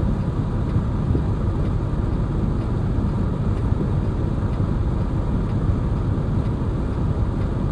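Steady low rumble of engine and road noise inside the cab of a Peterbilt 579 semi truck moving slowly.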